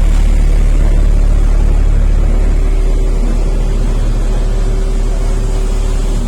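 JCB Vibromax soil compactor's JCB diesel engine running steadily, a loud, even low rumble.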